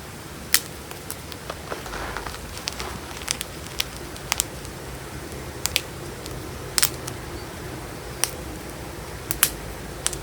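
Pieces of gym chalk crushed between the fingers: about a dozen sharp, irregularly spaced crunches and cracks over a faint steady background.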